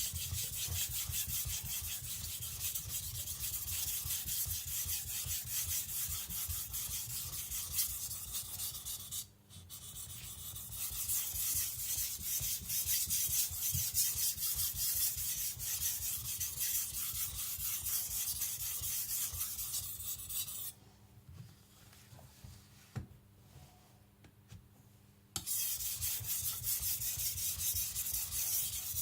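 Tojiro shirogami nakiri's carbon-steel blade stroked rapidly back and forth on a wet Naniwa Professional whetstone, an even scraping rub that raises a burr along the edge. It breaks off briefly about nine seconds in, stops for about four seconds after twenty seconds, then resumes.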